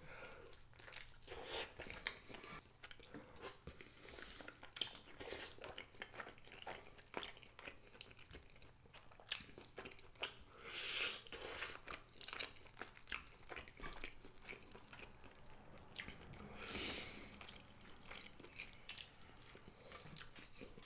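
Close-miked chewing and biting of rotisserie chicken thigh and drumstick eaten by hand: many small wet smacks and crunchy clicks, with two longer hissing sounds, about halfway through and again about three-quarters through.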